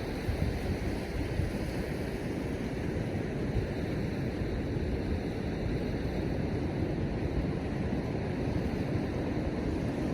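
Steady rush of surf breaking on the beach, mixed with wind buffeting the microphone.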